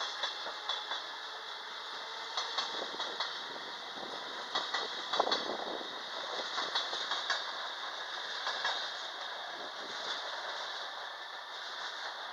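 Regional passenger train with an E464 electric locomotive running along the track, its wheels clacking and knocking over rail joints and points.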